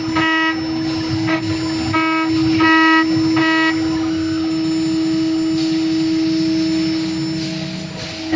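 STYLECNC STM1325-R1 CNC router's spindle whining at a steady pitch while carving aluminum on the 4th-axis rotary, with short repeated squealing tones as the cutter bites the metal. A sharp sound near the end.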